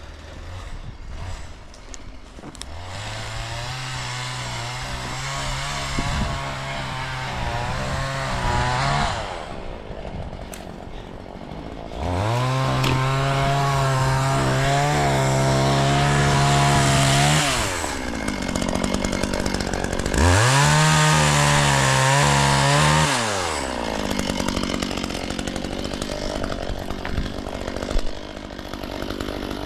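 Two-stroke chainsaw revved to full throttle three times, each run held for several seconds, then dropping back to a lower idle between and after. The runs are most likely the saw cutting into a log.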